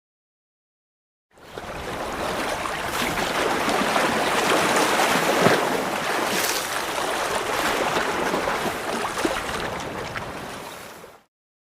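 A steady rushing of water, like surf or a stream, with a few small clicks in it. It fades in about a second in and fades out near the end.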